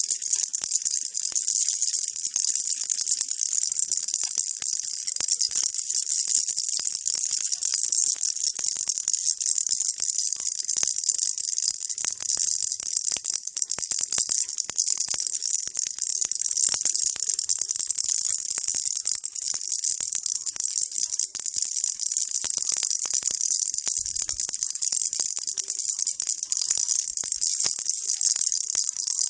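Baby rattle shaken without pause, making a steady, high-pitched rattling thick with tiny clicks, played as white noise.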